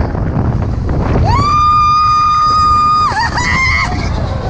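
A roller-coaster rider screaming with excitement: one long, high, held scream, then a few short broken yells, over the steady low rumble and wind of the moving coaster train.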